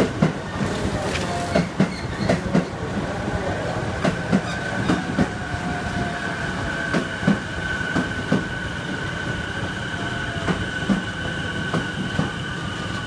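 Sotetsu 12000 series electric train running slowly, its wheels knocking irregularly over rail joints and points, with a steady high squeal that grows stronger in the second half.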